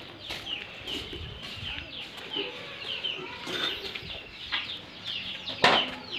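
Birds chirping over and over in short high calls, about two or three a second, with a single sharp knock near the end.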